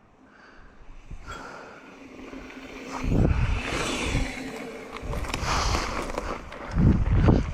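Mountain bike rolling down a dirt trail: tyre noise and rattle building up after a quiet start, with heavy wind gusts buffeting the microphone about three seconds in and near the end.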